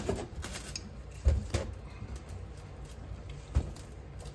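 A few short knocks from handling mold-making gear: one just over a second in, another soon after, and a third past the middle, over a low steady hum.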